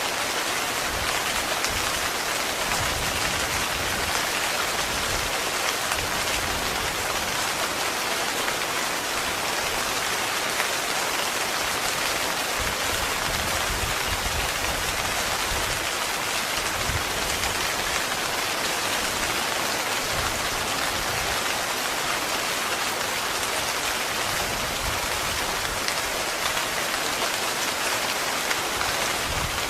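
Heavy rain falling steadily on a tent, an even, unbroken hiss.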